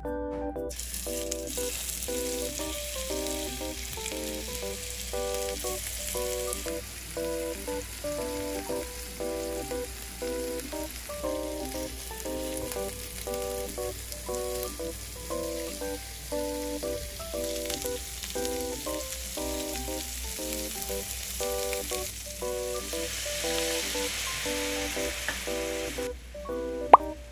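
Meatballs frying in oil in a nonstick frying pan, a steady sizzle that stops abruptly near the end.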